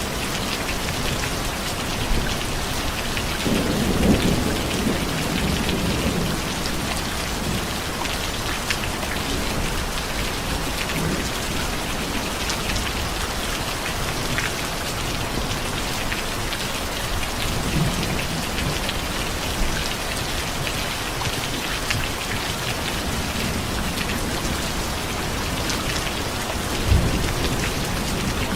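Steady rain falling, with low thunder rumbles, one about four seconds in and a sharper clap near the end.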